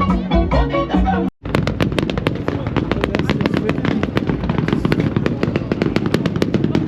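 Background music for about the first second, then a cut to a car engine held on a 2-step launch limiter: rapid exhaust pops and bangs, several a second, over the engine's rumble.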